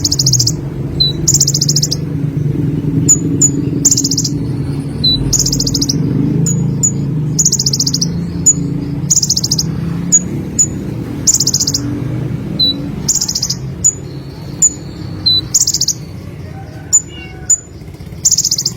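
Sunbird (the 'konin' kolibri of Indonesian bird-keepers) singing: short, high, rapidly stuttering buzzy phrases repeated about every second and a half, with sharp high chips and brief down-slurred whistles between them. A steady low rumble runs underneath.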